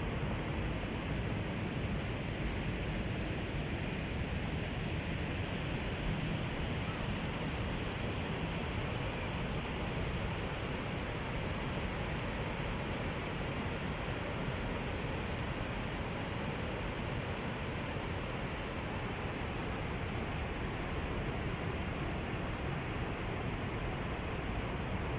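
Sea waves washing on the shore: a steady rush of surf.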